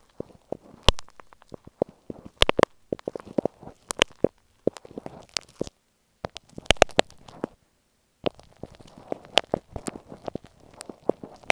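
Glue stick handled right against an earphone microphone: close, sticky crackling and sharp clicks in an irregular run, dropping out twice briefly near the middle.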